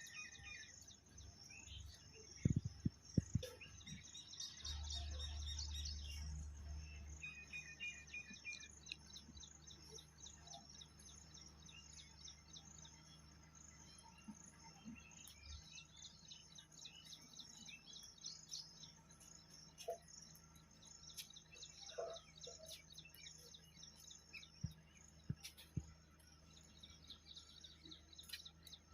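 Small birds chirping, short high calls repeated again and again, with a few dull low thumps about two and a half seconds in.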